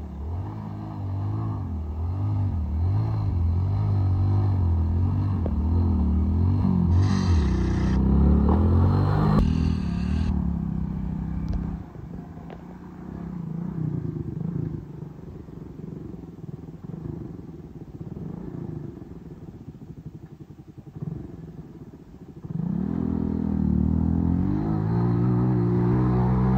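Hero Splendor motorcycle's single-cylinder four-stroke engine revving up and down again and again while the rear wheel spins in loose dirt, with a short hiss about eight seconds in. It drops to quieter, lower revs through the middle, then revs climb again near the end.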